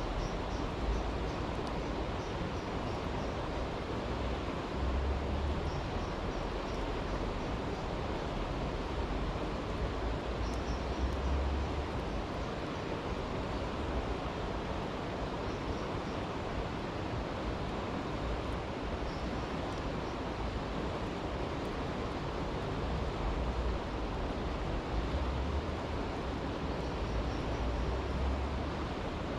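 A brook rushing steadily, with low rumbles coming and going and a few short faint high chirps now and then.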